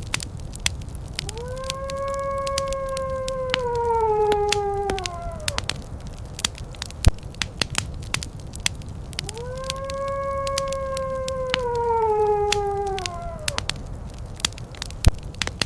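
Wood fire crackling with frequent sharp pops over a low rumble, while a wolf howls twice. Each howl is one long steady call of about four seconds that drops in pitch at the end, and a third howl begins right at the end.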